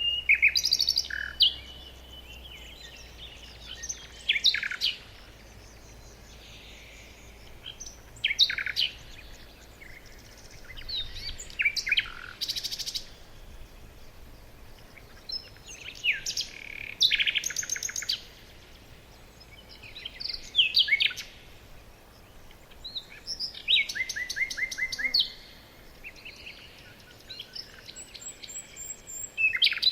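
Songbirds singing in short bursts of chirps and rapid trills, a new phrase every three to four seconds.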